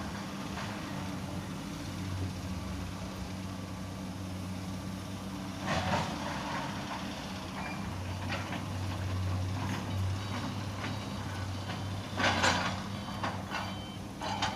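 Truck engine running steadily at a low idle, with two short louder noises about six and twelve seconds in.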